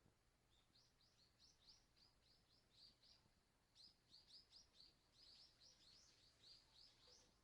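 A bird singing faintly: two runs of quick, high chirps, about four or five a second, with a short pause between them.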